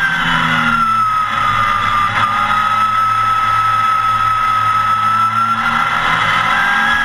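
Porsche 914 race car's engine heard loud from inside the cockpit on track. Its note falls over the first couple of seconds, holds steady for a few seconds, then climbs again near the end as the car accelerates.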